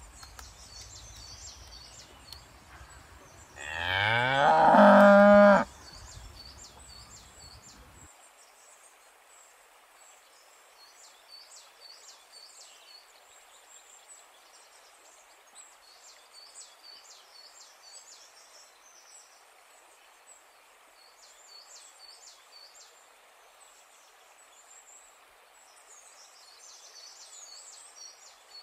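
A cow mooing once, a loud call of about two seconds that rises in pitch, about four seconds in. Faint high chirping goes on throughout.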